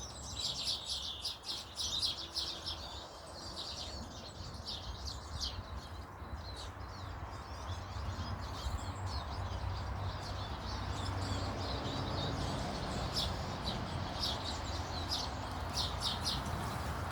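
Small garden birds chirping and twittering in many short, quick calls, busiest at the start and again in the last few seconds, over a steady low background rumble that grows a little louder midway.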